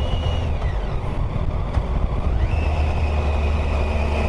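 Motorcycle running on the move, with a steady low rumble of engine and wind. Its whine drops as the bike eases off about half a second in, then climbs back up around two and a half seconds in as it accelerates and holds.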